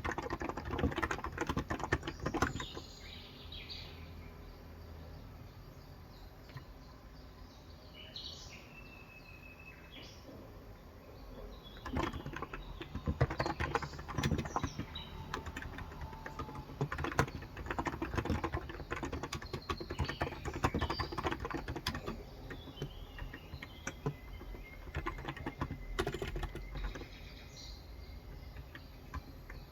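Typing on a Cox Endeavor electrocapacitive keyboard with 35g switches: a short burst of keystrokes, a pause of several seconds, then a long run of steady typing. Birds chirp outside now and then throughout.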